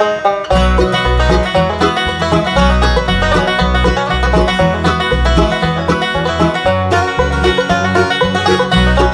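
Bluegrass band playing the instrumental opening of a song: banjo picking over guitar, with a steady bass line. The full band comes in about half a second in.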